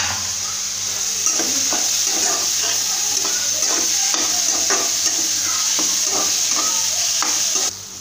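Grated onion, garlic and bitter gourd seeds sizzling in hot oil in a metal kadai, stirred with a metal spatula that scrapes the pan in short, quick strokes. The sizzle drops away suddenly near the end.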